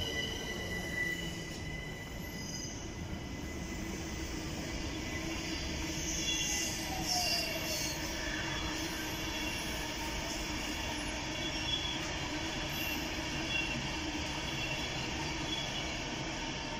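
London Overground electric train at the platform: a high brake squeal that fades in the first couple of seconds as it comes to a stand, then a steady electric hum and rumble, with a falling whine about halfway.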